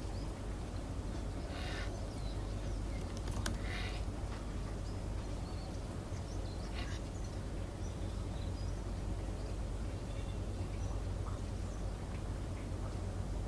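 Steady low hum and hiss of a quiet office room, broken by a few brief noises in the first seven seconds; no run of keyboard typing.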